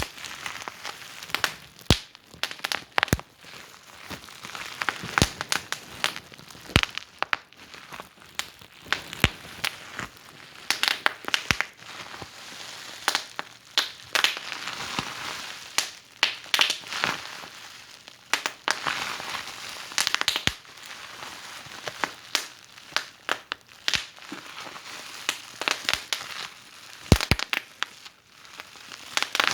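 Wood fire in a fireplace crackling: irregular sharp pops and snaps over a soft, steady hiss.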